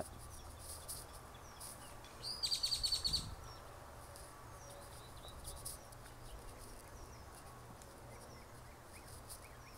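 A bird gives one rapid trilled call of about a dozen quick high notes lasting about a second, a couple of seconds in. Small, faint chirps come through a quiet outdoor background.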